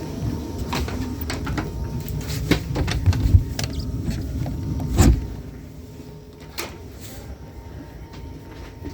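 Knocks and clicks over a low rumble aboard a Class 319 electric train, ending in one heavy thud about five seconds in, after which the sound drops to a quieter steady background.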